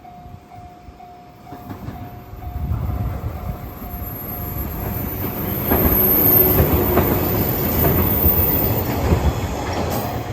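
Level crossing warning bell ringing in a steady beat of about two a second as a 413-series electric multiple unit approaches. The train's running noise rises from about two seconds in and passes loudly from about six seconds in, with repeated clickety-clack wheel beats over the rail joints.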